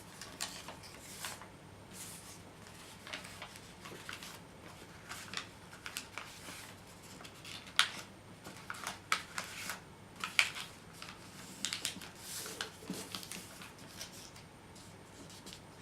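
Sheet of origami paper being folded and creased by hand: irregular crisp crackles and rustles as the paper is bent, flattened and pressed, with a sharper crinkle about eight seconds in and another near ten and a half seconds.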